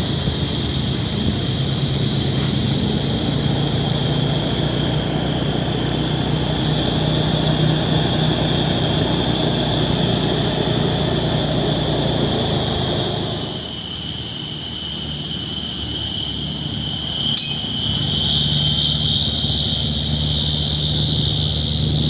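A truck engine running steadily, with a steady high whine alongside. About two-thirds through the low engine sound drops away for a few seconds, a sharp click follows, and then the engine sound picks up again.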